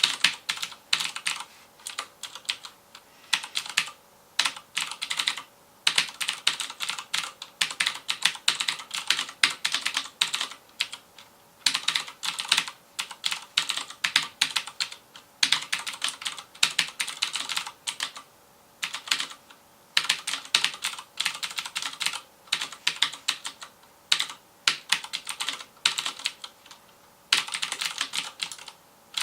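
Fast typing on a FILCO Majestouch Convertible 2 mechanical keyboard with Cherry MX Blue switches: crisp clicking keystrokes in quick runs, broken by short pauses every second or two.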